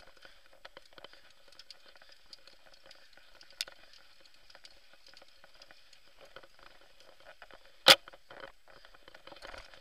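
Mountain bike rolling fast downhill over rough ground: a steady crackle of tyres on loose dirt with many small rattling clicks, and one loud sharp knock about eight seconds in.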